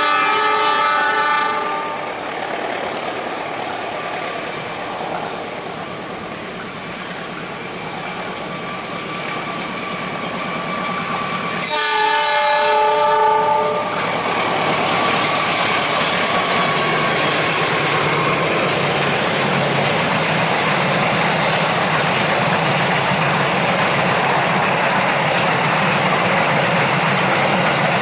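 A diesel-electric locomotive hauling a long passenger train sounds its multi-tone horn twice, for about two seconds at the start and again about twelve seconds in. Between the blasts the engine noise builds as the locomotive works up the steep grade. From about fourteen seconds in, a steady loud rumble of locomotive and coaches passing close on the curve runs to the end.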